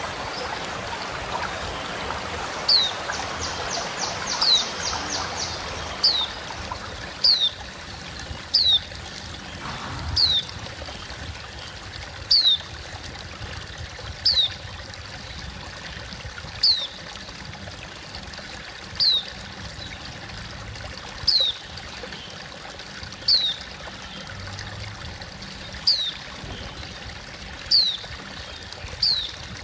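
A white-eye (pleci) repeats a short, thin, high call that slides downward, about one every two seconds, with a brief rapid high trill a few seconds in. Running water rushes steadily underneath.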